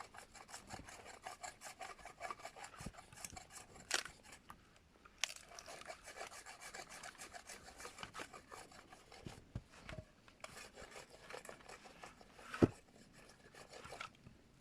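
Quick, repeated scraping strokes of a hand tool working wood, with three sharp knocks among them.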